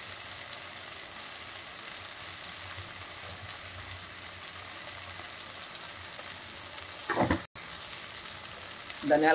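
Onions, tomatoes and green chillies frying in oil in a pan, a steady sizzle. A short sound and a brief dropout interrupt it about seven seconds in.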